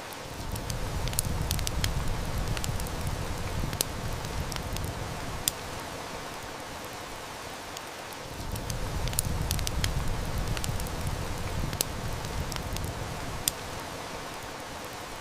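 Steady heavy rain with a wood fire crackling and snapping throughout. A low rumble swells up twice, at the start and again about halfway through.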